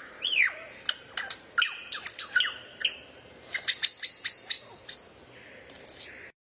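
A songbird singing a fast run of sharp chirps and short falling whistles, spaced irregularly. It cuts off suddenly near the end.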